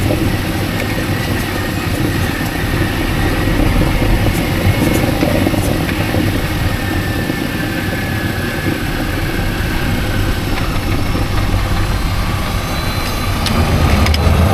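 Mini Cooper S (R52) with its engine running, a steady engine and road rumble that grows louder near the end.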